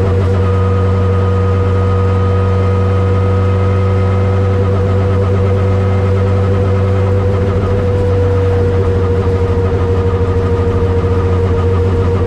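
Turbocharged Honda CRX engine running under way at a fairly even speed, its steady tone drifting slowly lower.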